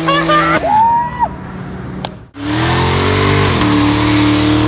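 Car engine revving and held at high revs, with a brief gliding squeal about a second in. After a sudden break about two seconds in, an engine revs up again and holds steady.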